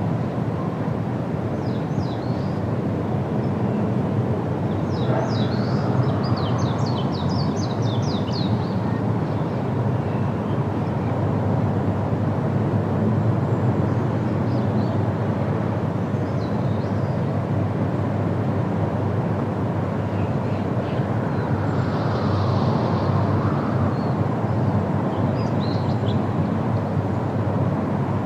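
Steady wind with birds calling over it: a quick run of chirps about five seconds in, and short scattered chirps later on.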